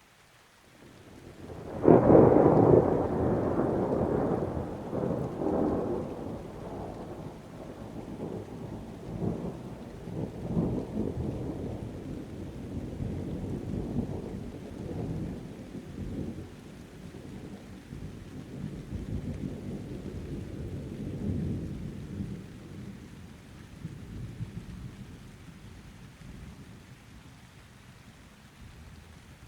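A thunderclap about two seconds in, the loudest moment, followed by a long rolling rumble that surges several times and slowly dies away over some twenty-five seconds, with rain falling beneath it.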